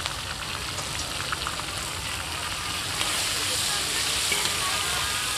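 Sliced pork liver sizzling in hot oil and fried garlic in a large wok, with metal spatulas knocking and scraping as it is stirred. The sizzle grows louder about three seconds in, once the liver is spread through the oil.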